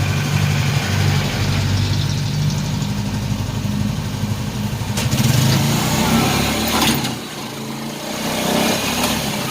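Motor vehicle engine running steadily with a low drone, which drops lower and quieter about seven seconds in.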